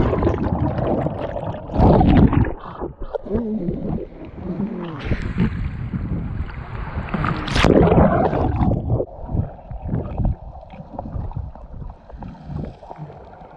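Seawater churning and gurgling around a camera that has just plunged in with a jumper: muffled, bubbly underwater rushing, with strong surges about two seconds in and again around eight seconds, then settling.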